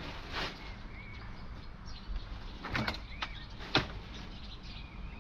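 A few light knocks and clicks, about four spread over the span, with faint short bird chirps behind them.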